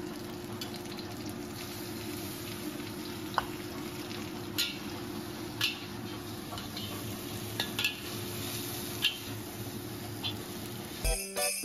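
Shrimp sizzling steadily in a hot wok on a gas burner, with a metal utensil clicking and scraping against the wok several times as the shrimp are stirred. Jingling music starts just before the end.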